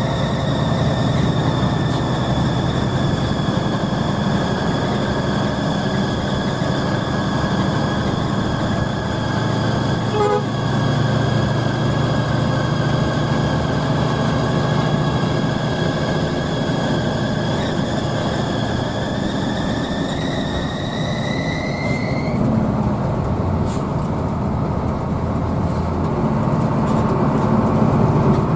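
Hino AK bus engine running under way, with a low rumble and a high whine above it. The whine sags slowly in pitch, climbs and cuts off about 22 seconds in, then starts again near the end.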